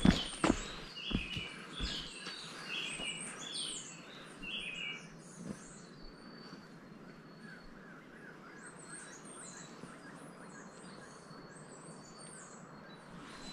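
Small birds chirping in quick, repeated high notes, several calls overlapping. Footsteps on the trail sound in the first couple of seconds.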